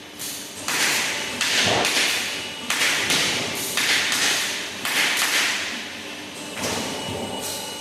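CNC press brake working: a run of sharp, hissing thuds, roughly one a second, each fading over about a second.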